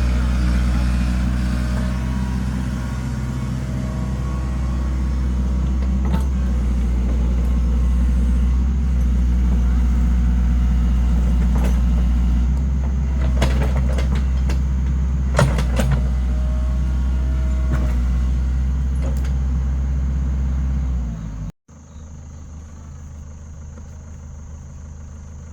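Engine running steadily with a deep, low hum, with a few sharp knocks about 13 and 15 seconds in. About 21 seconds in it cuts off abruptly, and a much quieter steady hum follows.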